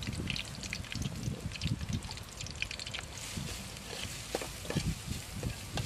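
Curry paste frying in a steel pot on a portable gas stove while a metal ladle stirs it, the ladle clicking against the pot now and then.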